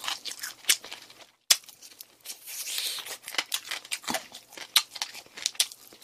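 Close-miked crunching of crispy-coated fried chicken (Goobne Honey Curry Basasak) being bitten and chewed: a rapid, irregular run of sharp crackles and clicks, with a brief hissy crackle about two and a half seconds in.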